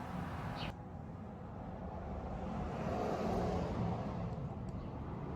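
Low, steady background rumble that swells a little near the middle. The higher hiss cuts off abruptly just under a second in.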